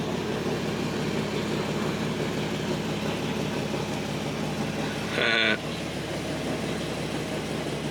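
Lexus IS300's inline-six engine idling steadily, with a brief louder sound about five seconds in. The idle has a vibration that the owner suspects is a slight misfire, and the car has an exhaust leak.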